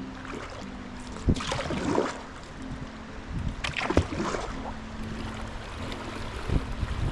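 Kayak paddle strokes dipping and splashing in the water, a few swishes a couple of seconds apart, over the steady wash of river water.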